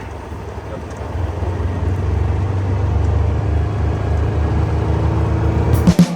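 Vehicle engine running as it drives, a steady low rumble that gets louder about a second in. Music cuts in right at the end.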